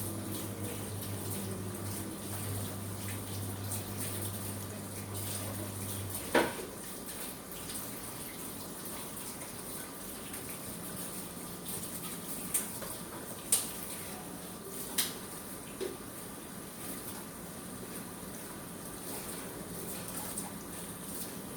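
Water running steadily from a kitchen tap, with a few sharp knocks and clinks. A low hum stops about six seconds in, right at the loudest knock.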